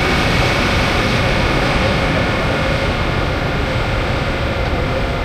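Train on a station platform track running steadily: a constant rumble with several held tones above it.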